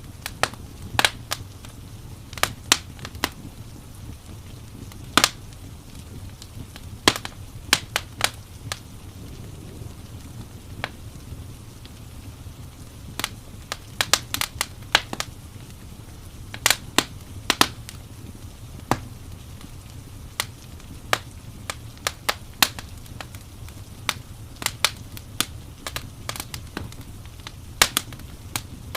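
Crackling wood fire: irregular sharp pops and snaps, some in quick clusters, over a steady low rumble and hiss of rain.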